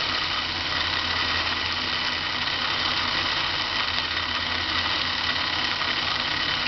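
Old Kenmore sewing machine's motor running steadily, driving the bobbin winder with the needle mechanism disengaged, as thread winds onto a nearly full bobbin.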